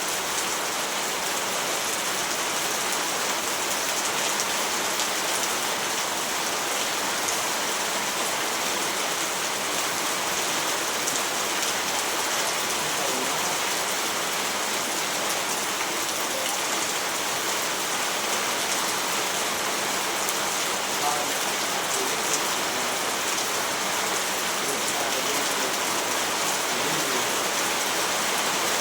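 Steady rainfall hissing, with the patter of drops landing on a surface.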